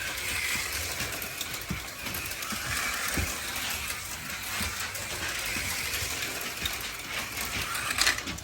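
HO-scale slot cars running on the track: small motors and gears whirring and rattling, with a sharp click about 8 seconds in.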